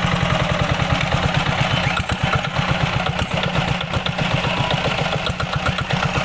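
Kubota engine running at a steady idle, its rapid firing pulses even and unbroken.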